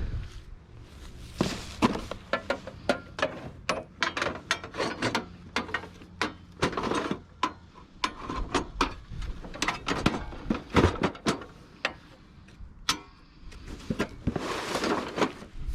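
Junk being rummaged through by hand: irregular clatters, knocks and clicks of hard objects, with a longer rustle near the end.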